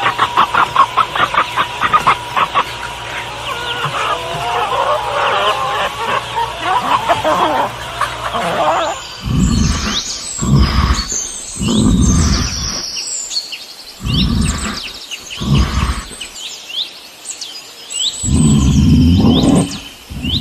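Chickens clucking and chirping rapidly. From about halfway this gives way to a series of short, loud, low calls, about seven in all, with small birds chirping over them.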